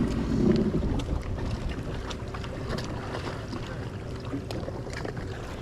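Jet ski engine running steadily at low speed, a continuous low rumble, with wind buffeting the microphone and scattered short ticks.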